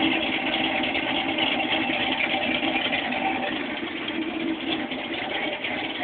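1979 Chevrolet Camaro's engine idling steadily, heard at the tailpipes, warming up after a cold start. It grows a little quieter about two-thirds of the way through.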